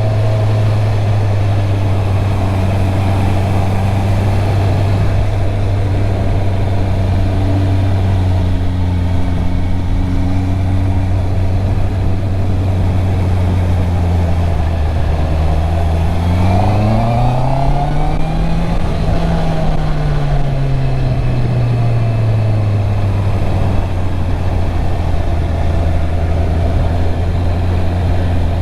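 Stock Honda CB650R inline-four engine running under way at a steady low note, with a rise in revs about sixteen seconds in that peaks a few seconds later and glides back down to the steady note.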